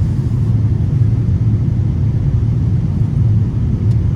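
Steady low rumble of an Airbus A330 in flight, heard inside the passenger cabin: engine and airflow noise.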